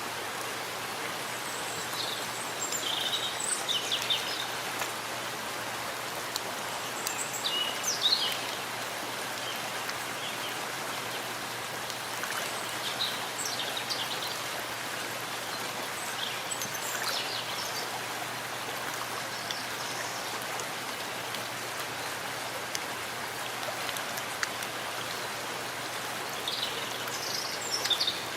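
Steady rain falling in a forest, with short bird chirps a few times over it.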